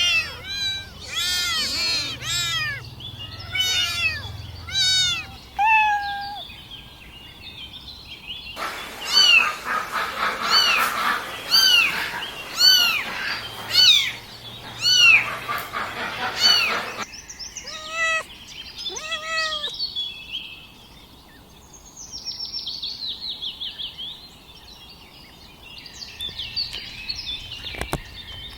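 Young kittens mewing over and over, short high-pitched arched cries of newborns calling for their mother's milk. Through the middle a steady hiss runs under the cries, and near the end the calls turn fainter and faster.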